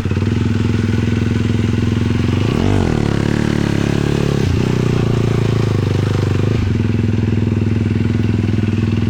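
Single-cylinder 450cc sport quad engine running under way, a loud steady note with a quick rev up and back down about three seconds in and a couple more shifts in pitch later.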